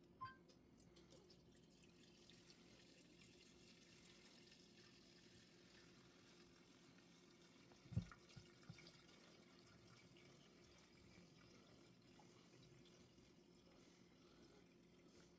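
Faint trickle of gasoline being poured, barely above the quiet room tone, with one short knock about eight seconds in.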